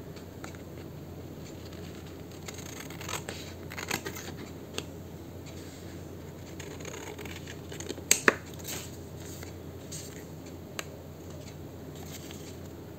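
Scissors cutting paper: a few scattered snips, the loudest a close pair about eight seconds in.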